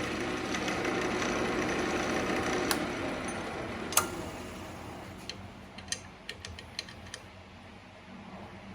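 Central Machinery wood lathe running while a turning tool scrapes a hard ambrosia maple bowl blank. The cutting noise fades away over the first half, leaving the lathe's steady hum. There is a sharp knock about four seconds in and a run of light clicks after it.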